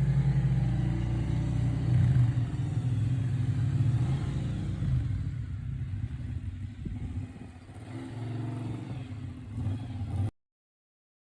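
Motorcycle engines running and revving, loudest in the first few seconds and then fading. The sound cuts off abruptly near the end.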